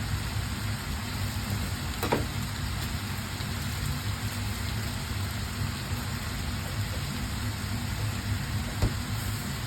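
Food frying in a pan, a steady sizzle over a low hum, with a light knock of a utensil about two seconds in and another near the end.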